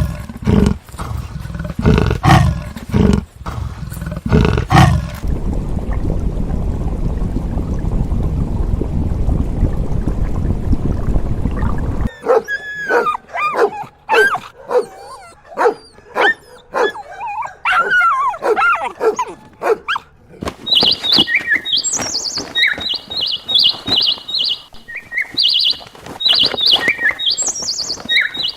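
A string of different animal calls: a few low, loud calls in the first seconds, then a steady low rumble, then a run of yelping, whining calls that slide up and down, and in the last several seconds rapid high-pitched squeaks.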